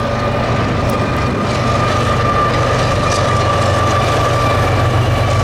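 Freight train rolling by, a steady low rumble with a sustained high whine that sinks slightly in pitch.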